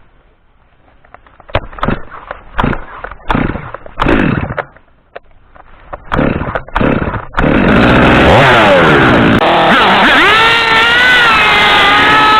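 Small petrol engine being pull-started: several separate pulls that fail to catch, then about seven seconds in it fires and keeps running, its revs rising and falling.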